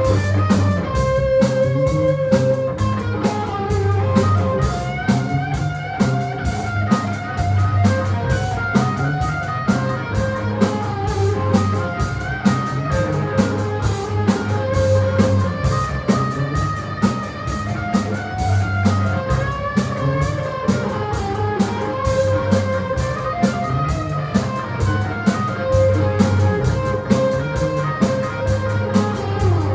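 Live band playing an instrumental stretch with no vocals: a guitar melody over bass notes and a drum kit keeping a steady beat.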